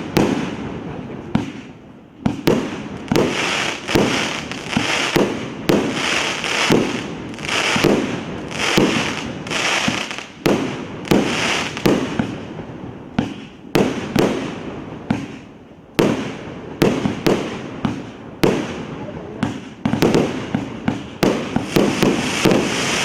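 Large consumer fireworks cake (battery of salutes) firing shot after shot, about one a second. Each shot is a sharp bang followed by a hiss.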